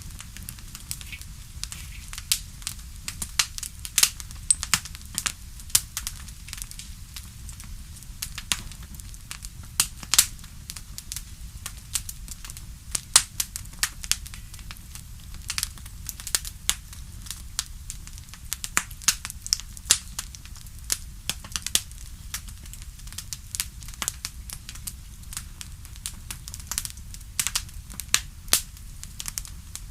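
Wood campfire crackling: irregular snaps and pops of burning wood, some much louder than others, over a steady low rumble of the fire.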